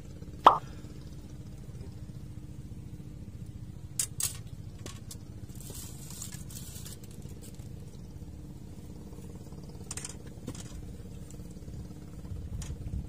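A sharp plop of something small dropping into water about half a second in, over the steady low drone of an engine. A few light clicks follow later.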